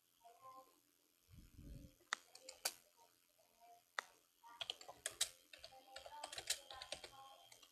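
Irregular sharp clicks and taps, a few at first, then a fast run of clatter from about four and a half seconds in, with a dull low thump about a second and a half in.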